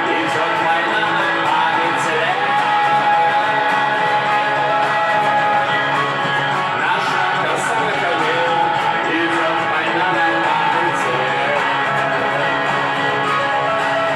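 Guitar music: an instrumental passage of a song, with no words sung.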